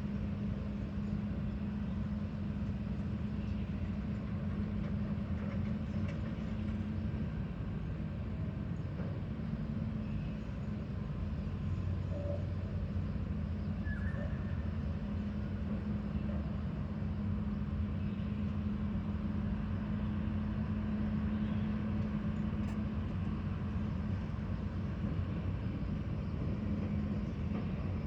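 A heavy machine's engine running steadily, a low even hum that holds the same pitch and level throughout.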